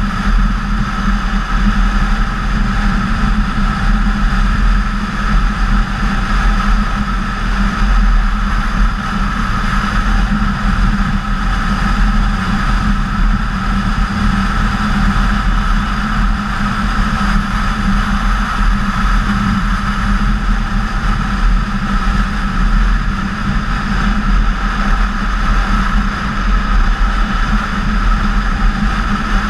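BMW K1600GTL motorcycle's inline-six engine running at a steady cruise, its drone holding one pitch throughout, mixed with wind rush over the bike-mounted camera.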